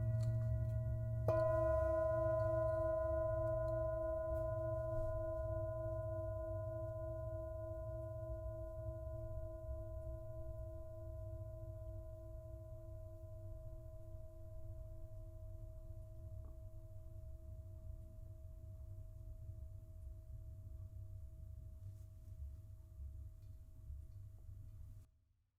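A singing bowl struck once about a second in, ringing with a slow wavering beat and fading gradually over some twenty seconds before cutting off just before the end. A low steady rumble runs underneath.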